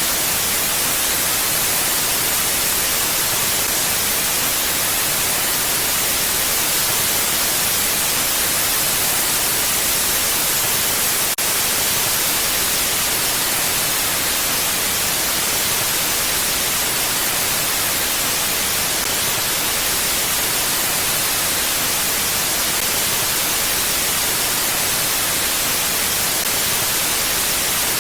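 Steady, even hiss of wind noise with no gusts or lulls, heavier in the high end than the low. There is one faint tick about eleven seconds in.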